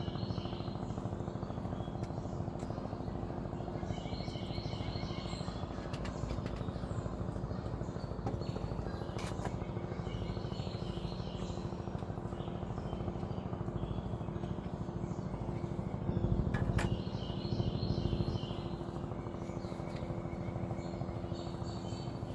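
News helicopter hovering overhead: a steady rotor and engine drone with a fast low chop, swelling briefly about three-quarters of the way through. Birds chirp in short bursts every few seconds.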